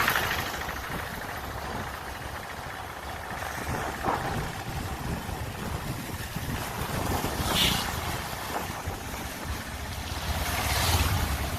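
Motorcycle running along a rough road, with its engine rumble and wind rushing over the microphone, and two brief hissing surges partway through and near the end.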